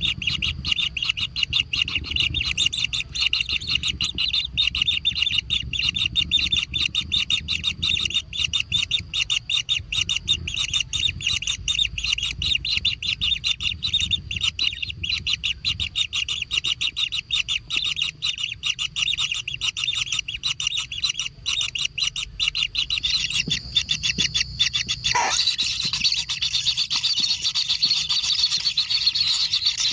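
Kingfisher nestlings giving a continuous, very rapid, high-pitched chattering call, which grows harsher and spreads higher about three-quarters of the way through.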